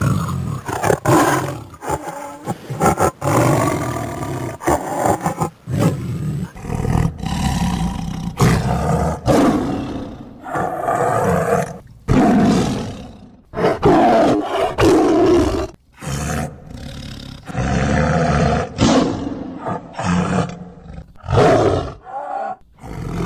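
A string of loud wild-animal roars, one call after another, each lasting a second or a few, with abrupt breaks between them.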